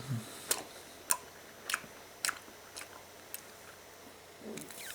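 A large wad of bubble gum being chewed, with wet clicks and smacks from the mouth about twice a second.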